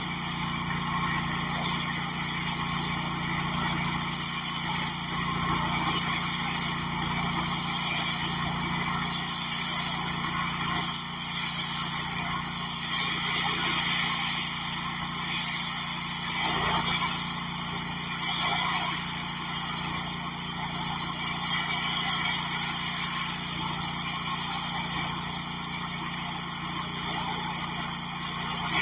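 Gas-engine pressure washer running steadily at constant speed, with the hiss of the spray over the engine note.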